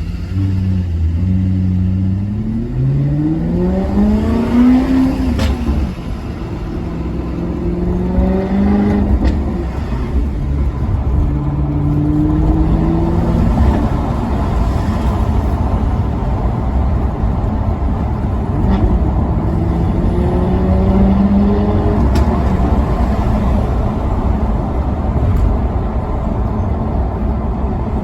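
Maserati Quattroporte Sport GT's V8 accelerating hard through the gears: the engine note climbs and drops back at each upshift, four times, with a sharp click at some of the shifts. Between pulls, steady road and wind noise.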